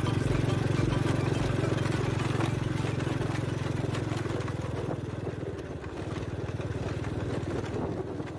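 Excavator's diesel engine running steadily with a fast, even pulse, growing quieter from about five seconds in.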